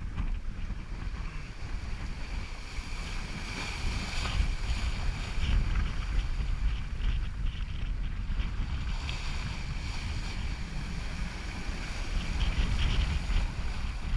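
Wind buffeting the microphone with a steady rush of water along a sailboat under way, a gusty low rumble under an uneven hiss.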